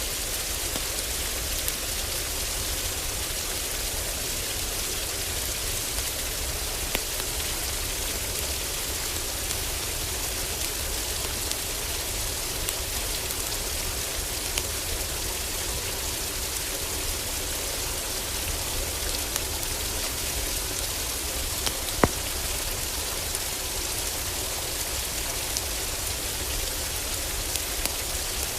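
Heavy rain falling steadily on a roof, with a steady low rumble beneath it. Scattered crackles and pops from a wood fire sound over the rain, the sharpest about 22 seconds in.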